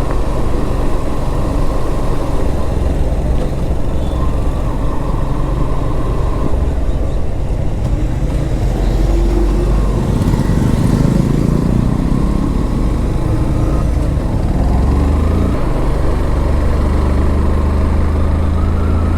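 Motorcycle riding along a road: engine running steadily under a constant rush of wind and road noise, with a louder stretch a little past halfway.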